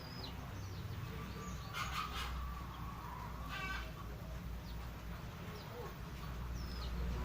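Birds calling: two short, harsh, hen-like clucks, with thin high chirps scattered through, over a steady low rumble.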